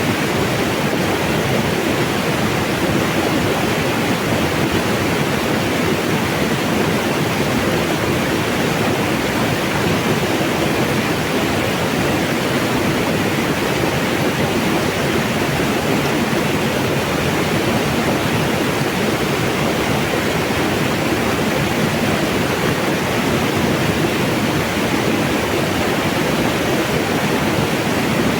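Steady rush of mountain water flowing over rocks, a continuous loud splashing with no change.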